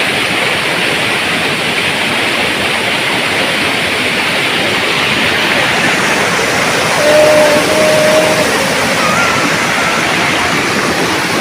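Steady loud rush of flowing water, like a rain-swollen stream or runoff channel. A faint, brief held tone sounds near the middle.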